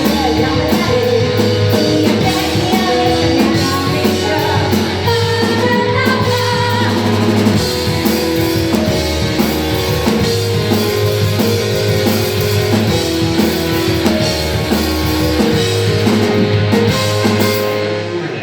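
Live rock band playing: drum kit, bass and electric guitar, with singing.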